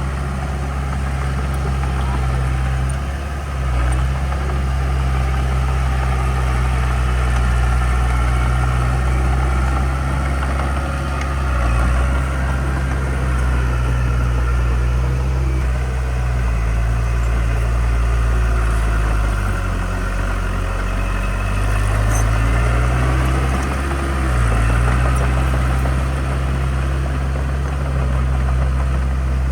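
Heavy earthmoving machine's diesel engine running steadily, its pitch dipping and recovering several times as it comes under load.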